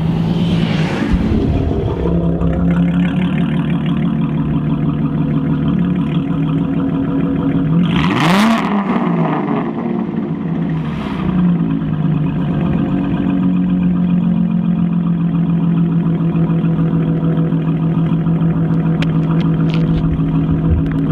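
Supercharged V6 Camaro with an MBRP cat-back exhaust and Carven mufflers running at steady high revs, its exhaust note holding one constant pitch. About eight seconds in there is a brief rise and fall in pitch with a rush of noise.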